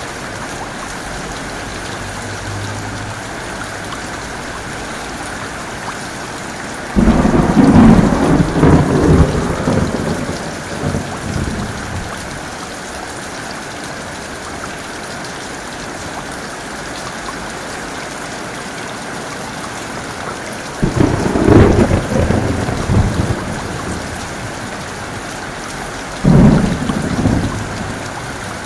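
Steady heavy rain, with three sudden thunder crashes that rumble away over a few seconds each: one about seven seconds in, one a little past twenty seconds and a shorter one near the end. The thunder crashes are the loudest sound.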